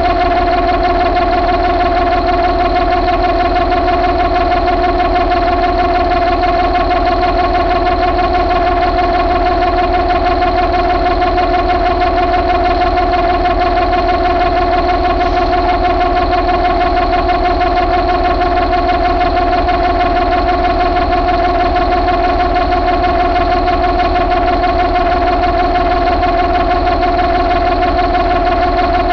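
Mercedes MBE926 inline-six diesel engine running steadily at a constant speed, with a strong steady whine over the engine note.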